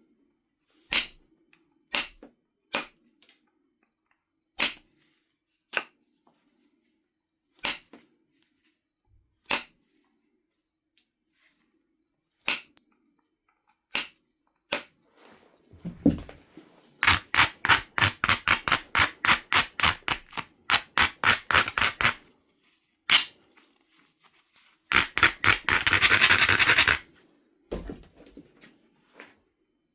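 A Knife River flint biface being worked by hand. Sharp single clicks of stone on tool come about every second or two. A run of quick scraping strokes follows, about five a second, then a short steady scrape near the end, typical of rubbing the edge on an abrader.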